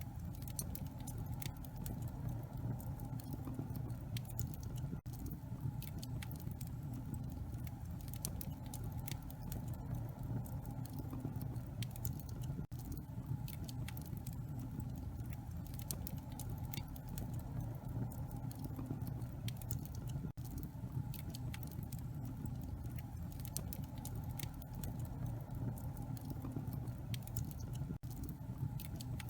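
Wood fire in a fireplace crackling: many small sharp pops and snaps over a steady low rumble.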